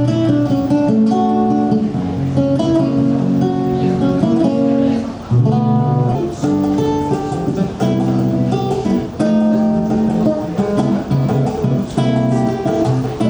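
Acoustic guitar music with chords held and changing about every second.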